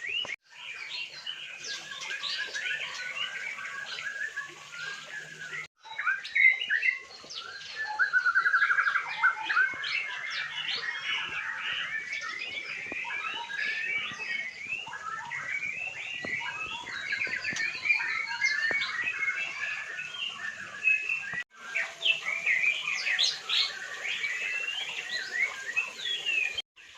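Many songbirds chirping, calling and trilling at once in a dense, continuous chorus. The sound cuts out completely for a moment about six seconds in and twice more later on.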